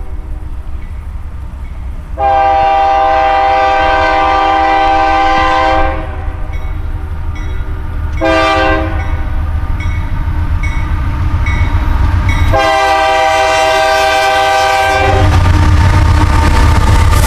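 Diesel locomotive air horn sounding a long blast, a short blast and another long blast, the grade-crossing pattern, over the low rumble of the approaching coal train. Near the end the locomotives' diesel engines grow louder as they come close.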